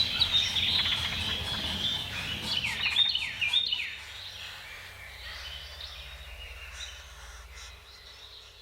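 Birds calling: a quick run of high, downward-sliding chirps in the first four seconds, then fainter calls that fade out, over a steady low background rumble.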